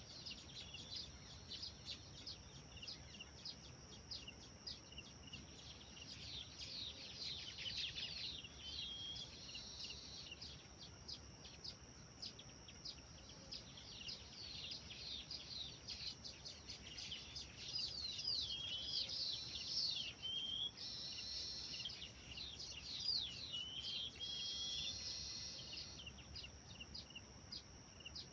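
Small songbirds chirping in quick, high, repeated notes, with a few short sliding whistles and, twice in the second half, a brief buzzy trill.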